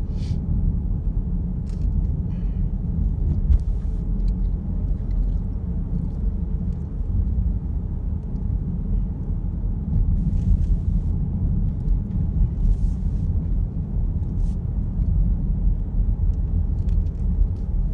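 Steady low road rumble and engine noise heard inside a moving car's cabin, with a few faint scattered ticks.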